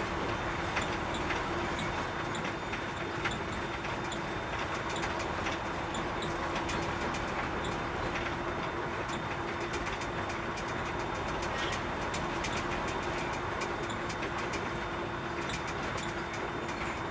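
Container truck's diesel engine running steadily with road noise, heard from the cab, with a steady low hum and many small rattling clicks throughout.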